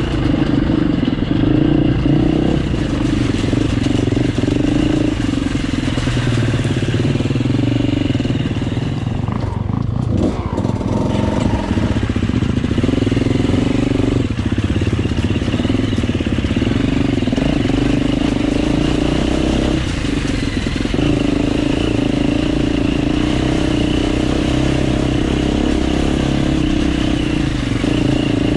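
Enduro motorcycle engine running while riding a muddy, rocky trail; its note rises and falls with the throttle, easing off about ten seconds in and then picking up again.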